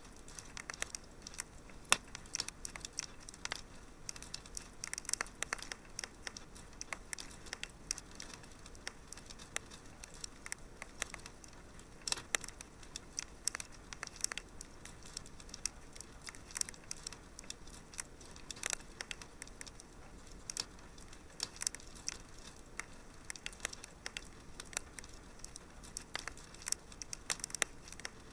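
Wood fire in a fireplace crackling, with irregular sharp pops and snaps over a faint steady hiss; a few louder pops stand out.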